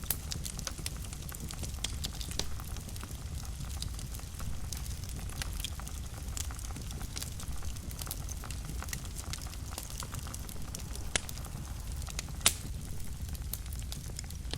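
Fireplace fire crackling: a steady low rumble of burning with frequent small snaps, and two louder pops near the end.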